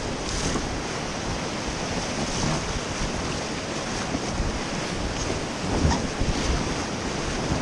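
Rushing river water around a raft, with wind buffeting the action camera's microphone and a few low thumps about six seconds in.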